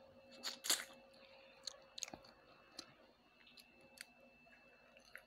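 Close-up chewing and eating noises from a person eating with her fingers: scattered wet mouth clicks and smacks, several in quick succession about half a second in and a few more spread over the following seconds.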